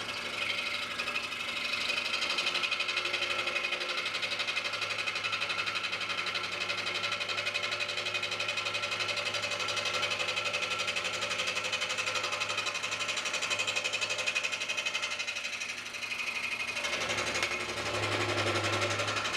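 Scroll saw running, its blade stroking rapidly up and down as it cuts through a small block of wood. The sound dips briefly about three-quarters of the way through, then picks up again.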